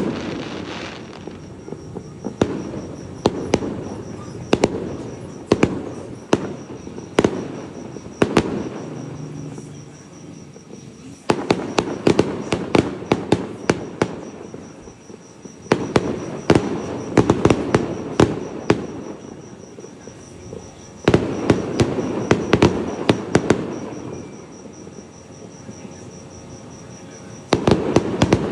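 Fireworks going off: sharp bangs and crackles in clustered volleys, each trailing into a rumbling echo, with quieter lulls between. A faint steady chirping of insects runs underneath.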